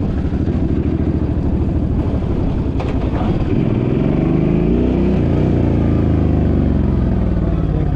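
The Suzuki's engine running under way, its pitch climbing about halfway through and then easing back down.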